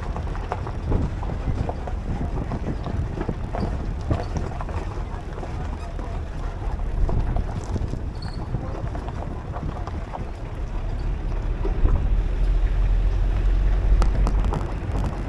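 Wind buffeting the microphone over a steady low rumble, with faint, indistinct voices in the background.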